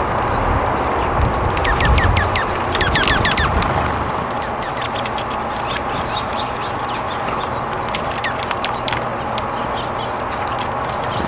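Wild birds calling: a quick run of sharp, down-slurred notes a couple of seconds in, then scattered single chirps, over a steady outdoor background noise with a low rumble.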